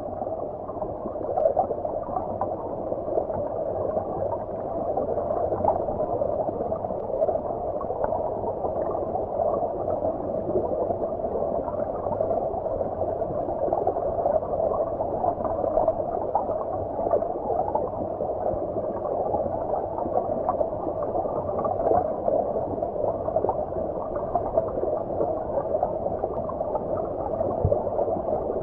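Shallow stream heard from under the water: steady, muffled bubbling and gurgling of flowing water, with little hiss at the top.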